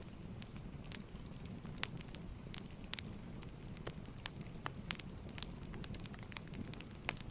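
Wood fire crackling in a fireplace: frequent irregular snaps and pops over a low steady rumble of the flames.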